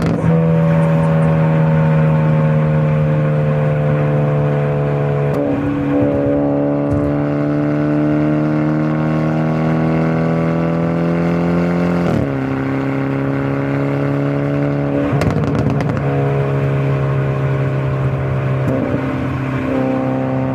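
Hyundai Avante N (Elantra N) 2.0-litre turbocharged four-cylinder engine and exhaust under way, running at a steady pitch that jumps to a new level about four times as the gears change. Short bursts of crackle come at the start and again about fifteen seconds in.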